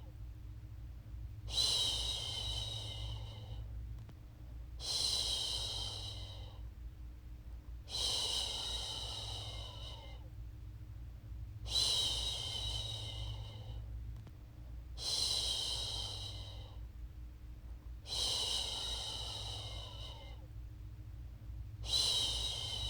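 A woman's voice shushing a baby with long 'shhh' sounds, about seven of them, each lasting roughly two seconds and repeating every three seconds or so, over a steady low hum.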